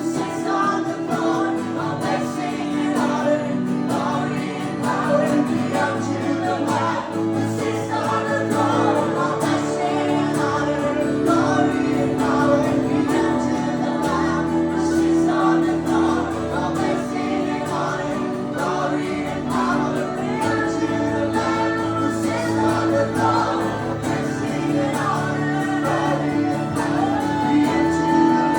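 Live acoustic worship music: singing over sustained, steady instrumental chords.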